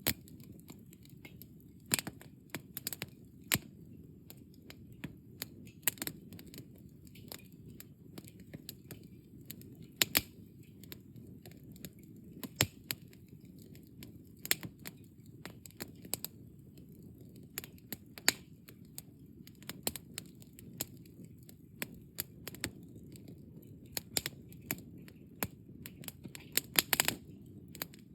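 Wood campfire burned down to embers, crackling with irregular sharp pops and snaps over a steady low rumble of burning.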